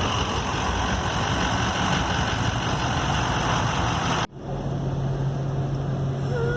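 A motor vehicle's engine running steadily with a broad rushing noise. It cuts off abruptly about four seconds in, and a steady low hum follows.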